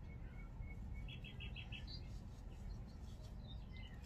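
Faint bird chirps: a few thin high notes, then a quick run of about five short chirps a little over a second in, over a steady low hum.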